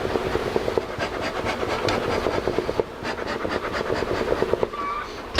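Rapid, steady rasping and scraping, many strokes a second, with a short break about three seconds in.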